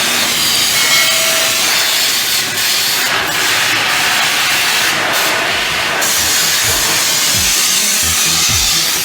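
Pressure washer spraying water onto a truck, a loud steady hiss that swells and dips slightly as the spray moves.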